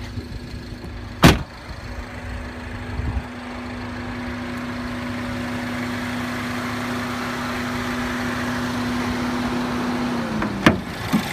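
2015 Mini Cooper S Countryman's 1.6-litre turbocharged four-cylinder idling steadily, with a sharp clack about a second in and another near the end.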